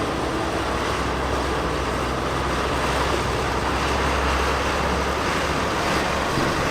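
Steady low rumble of vehicle noise with a constant low hum, growing slightly louder.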